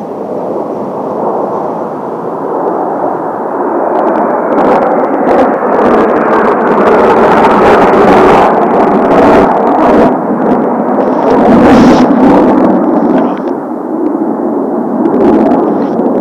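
Kawasaki T-4 jet trainers flying past, their engine noise building over several seconds, loudest around the middle, then easing slightly. Gusts of strong wind buffet the microphone with dull thumps.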